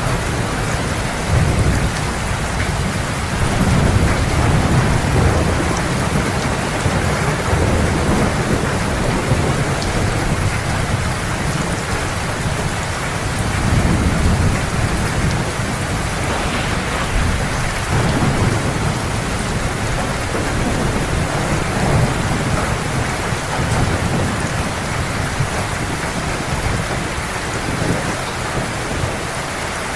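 Heavy rain falling in a steady hiss, with low rolls of thunder swelling and fading underneath.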